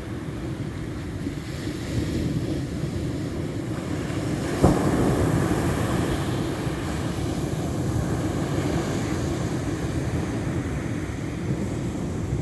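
Ocean surf washing steadily, with wind rumbling on the microphone. A single sharp knock about four and a half seconds in.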